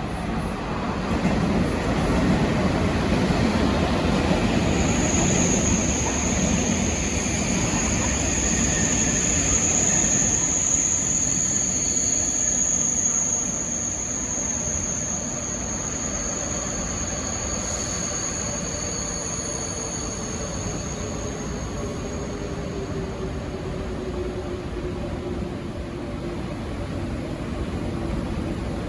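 TGV high-speed train running through the station: a rail rumble, louder for the first half, with a steady high squeal through the middle and a low whine that falls slowly in pitch over the second half.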